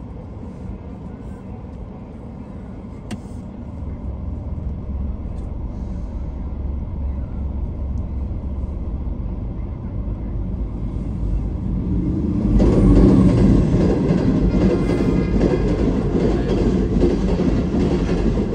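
Passenger train approaching a level crossing. A low rumble grows louder, then about two-thirds of the way in the train reaches the crossing with a sudden jump in loudness, and its carriages roll past close by.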